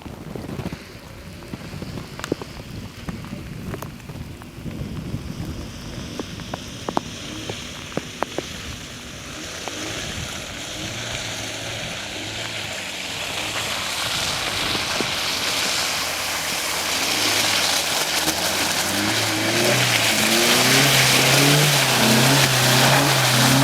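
Hyundai Tucson driving through mud: scattered clicks and a patter of mud and water hitting the body, then engine and tyre noise that grows steadily louder. From about halfway through, music with a stepped bass line plays along.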